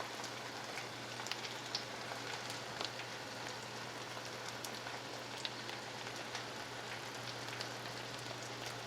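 Green onion pancake batter and egg frying in a pan: a steady sizzle with scattered small pops and crackles, over a faint low steady hum.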